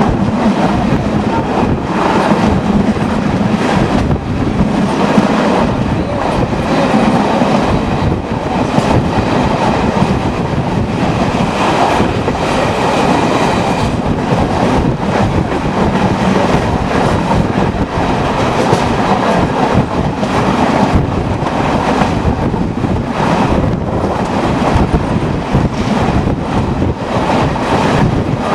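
Passenger train heard from inside a coach while running: steady loud rumble and rattle with the rapid clickety-clack of wheels over rail joints.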